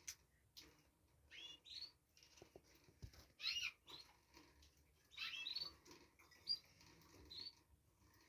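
Small pet birds chirping in short, high, scattered calls, a few clusters a second or so apart, with softer twittering between them.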